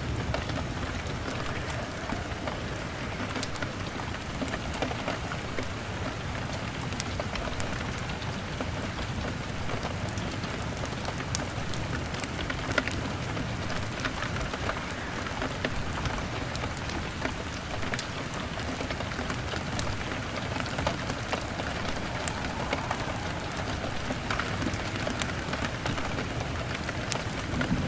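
Steady rain on a window glass, with scattered sharp crackles from a fire.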